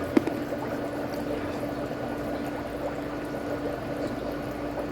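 Foot spa bubbling water, with a steady low hum under it and a fan blowing; a small click just after the start.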